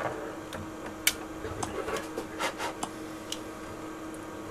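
A few light, scattered clicks and rubbing sounds, the sharpest about a second in, over a steady electrical hum.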